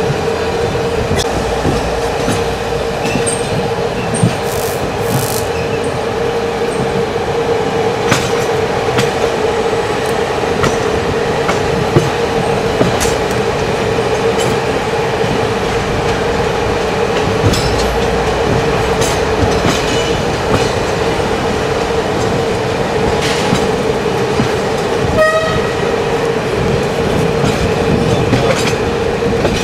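Passenger carriage of an intercity train running, heard from inside: a steady rumble with a constant hum and scattered clicks of the wheels over the track.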